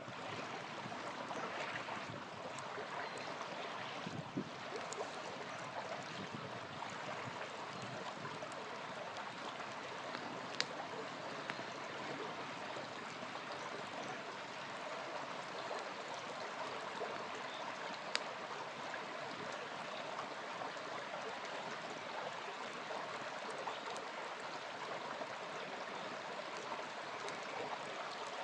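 Small river flowing steadily, with a few sharp pops from a campfire, the clearest about ten and eighteen seconds in.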